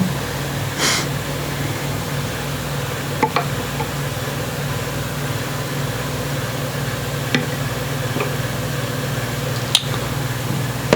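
A steady low hum with a few light, sharp clicks and knocks, from guitar tuner hardware being handled and tried in the headstock.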